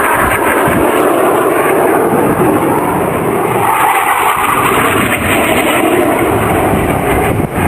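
A display aircraft's engine, loud and steady as it flies its routine, heard as a rushing noise without a clear pitch.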